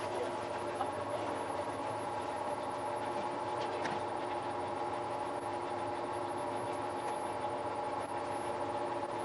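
Steady mechanical hum of an Ikawa Line train standing at a station, its equipment idling: a low drone with several held tones, and a faint click about four seconds in.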